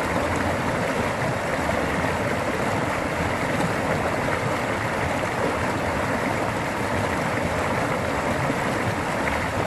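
Floodwater rushing in a steady, unbroken torrent: a sudden flash flood in spate.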